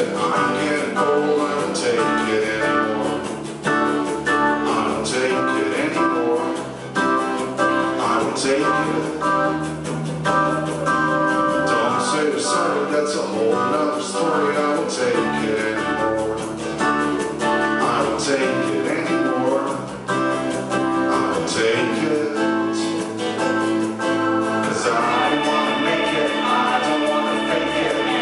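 Indie band playing live: plucked and strummed guitar with other instruments and singing, at a steady level throughout. Sustained held notes come in near the end.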